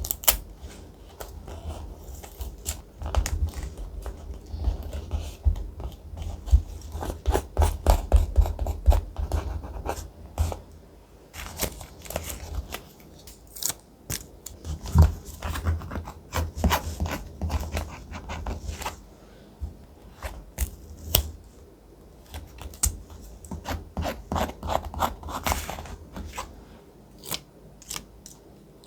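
Thick paper being handled for collage journaling: an irregular run of crisp rustles, scrapes and clicks, close up.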